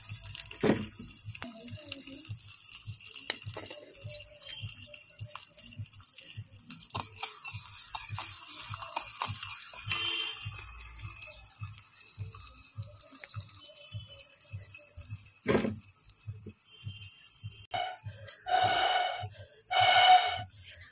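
Chopped onions sizzling in hot oil in a small clay pot over a twig fire, with a metal spoon scraping and knocking against the clay as they are stirred. Near the end come two short hooting bursts.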